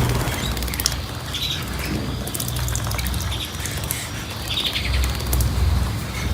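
Small cage birds giving short chirps, a few times, over a steady low rumble.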